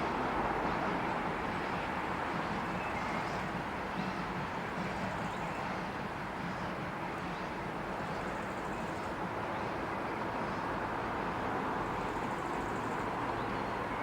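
Steady rumble and rolling noise of a retro passenger train hauled by the Ty2 steam locomotive, with no distinct exhaust beats.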